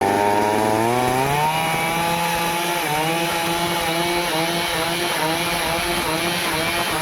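Stihl two-stroke chainsaw engine revving up over the first second and a half, then running steadily at high revs with small dips in pitch.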